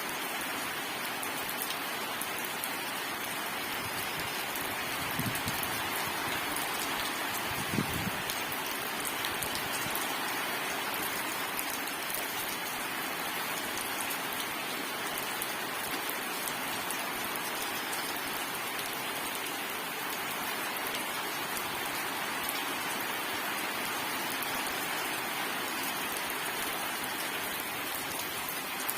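Steady rain falling on surfaces, an even hiss of many drops, with two brief low thuds about five and eight seconds in.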